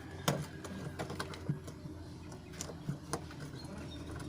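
Scattered light clicks and taps of wires and small electrical parts being handled, about half a dozen irregular ticks over a steady faint low hum.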